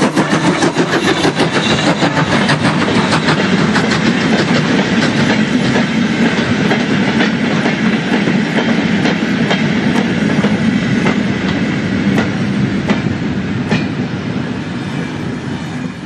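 Steam-hauled train running along the line, its wheels clicking rhythmically over the rail joints over a steady rumble. The sound eases slightly toward the end.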